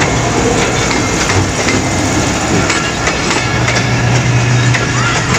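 Diesel-hauled passenger train passing close by: the locomotive's engine drones while the wheels clatter and click over the rail joints. The low engine hum grows stronger about three and a half seconds in.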